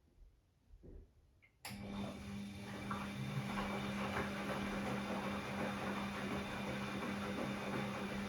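Bosch Classixx 6 washing machine in its first rinse: after a few faint knocks, a steady hum and rushing water start abruptly about a second and a half in and hold steady.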